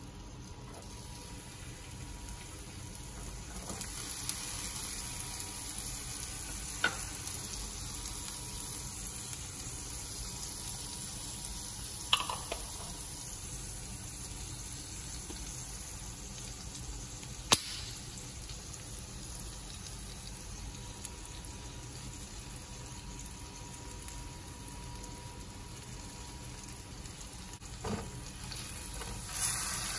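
Minced garlic sizzling in melted butter and oil in a nonstick frying pan, a steady hiss that grows a little a few seconds in. A few sharp taps are heard, and a silicone spatula stirs the garlic near the end.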